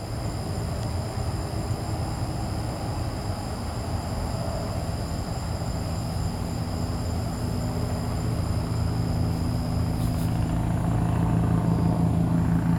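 Helicopter circling overhead: a low rotor and engine rumble that grows steadily louder, with steady low engine tones coming through more strongly in the second half as it draws nearer.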